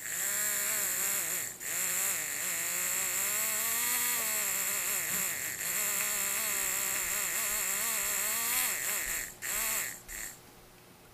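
Savox 236 RC servo motor whining as it runs, its pitch rising and falling as it drives back and forth. It cuts out briefly twice and runs only when the repaired motor connection makes good contact.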